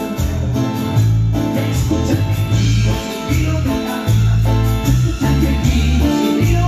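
A band playing Latin-style music, with a heavy bass line under guitar and a steady beat of hand percussion.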